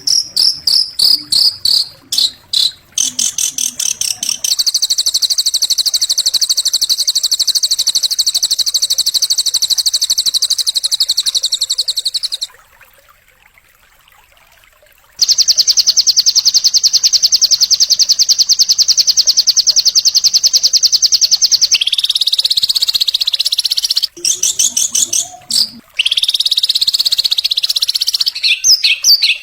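Recorded songbird song of the kind used as masteran for caged birds. It opens with quick choppy chirps, then a very fast, high-pitched buzzing trill runs for several seconds. The trill breaks off for a few seconds about halfway through and then resumes. Sweeping chirps follow near the end.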